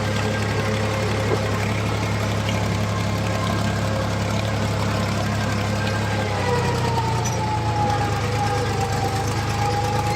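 HMT tractor's diesel engine running steadily, with a thin whine above the engine note; the engine note shifts slightly about six and a half seconds in.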